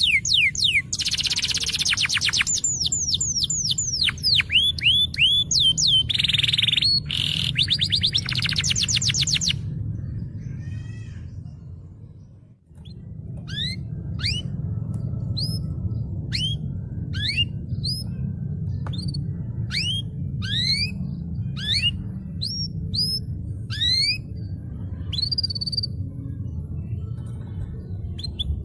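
Canary singing: fast rolling trills and runs of sweeping notes for the first ten seconds or so, fading out about twelve seconds in, then a new stretch of separate rising whistled notes about two a second. A steady low hum runs underneath.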